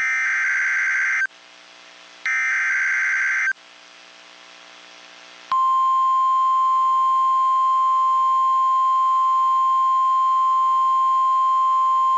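NOAA Weather Radio alert signal: two short, harsh SAME data bursts about a second long with pauses between them. About five and a half seconds in, the steady single-pitch 1050 Hz warning alarm tone starts and holds, marking the start of a new severe thunderstorm warning broadcast.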